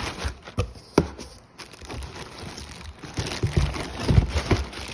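Packaging handled and pulled open during an unboxing: crinkling plastic and cardboard, with a few sharp knocks.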